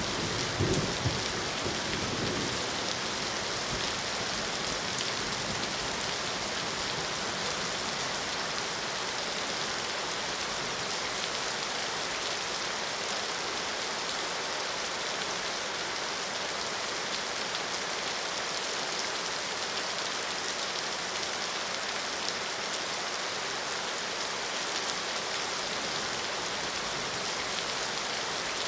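Steady rain falling, a dense even hiss with the patter of drops, and a brief low rumble in the first couple of seconds.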